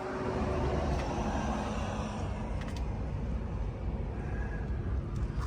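Motor vehicle running: a steady low engine hum, with a swell of road noise that rises in the first second and fades by about two seconds in.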